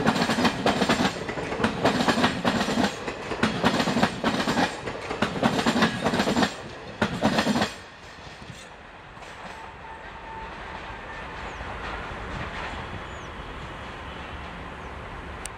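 Coaches of a passenger express train passing close by, the wheels clattering over rail joints in a quick irregular clickety-clack over a steady rumble. About halfway through the last coach goes by and the clatter stops abruptly, leaving a fainter steady rumble.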